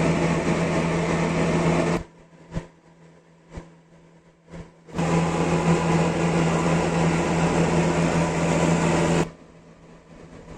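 Electric belt sander running, switched off about two seconds in, then a few light knocks, and switched on again for about four seconds before it stops.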